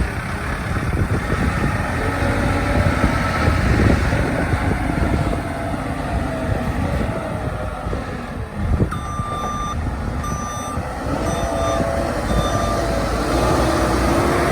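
JCB 215E backhoe loader's diesel engine running, with a short knock and then the reversing alarm beeping four times in the second half as the machine backs up.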